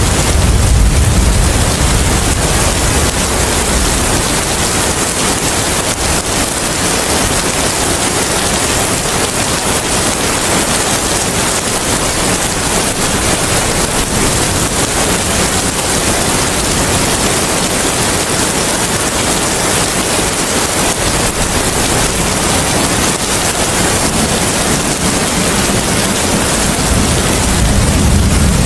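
Steady rain falling, a dense even hiss, with a low rumble of wind or thunder swelling at the start and again near the end.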